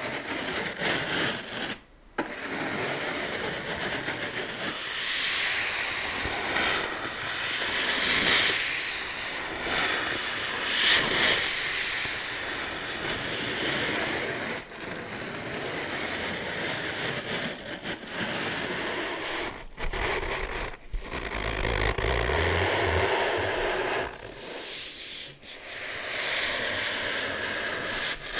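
Slow scratching and rubbing of objects close to the microphone: a continuous rustling, scraping hiss with only a few distinct taps. There is a short pause about two seconds in and a low bump a little past two-thirds of the way through.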